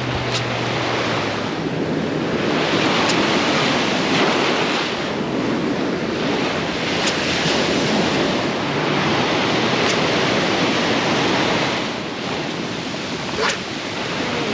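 Ocean surf washing against the shore, swelling and easing in waves, with wind buffeting the microphone. A few faint sharp ticks are heard over it, the clearest near the end.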